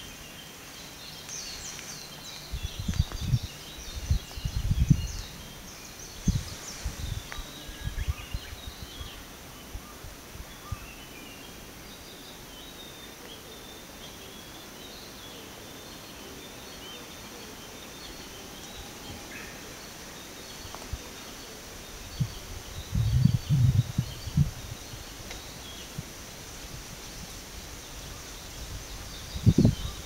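Several small birds chirping and singing in quick short notes, busiest in the first half. Low gusts of wind rumble on the microphone a few seconds in and again past the middle.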